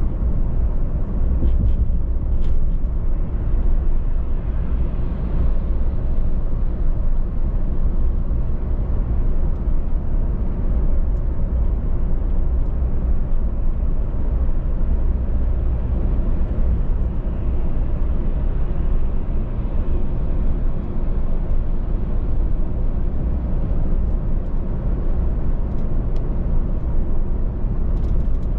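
Car driving at a steady speed: an even, low rumble of tyres and engine with no changes in pace, and a few faint clicks near the start and near the end.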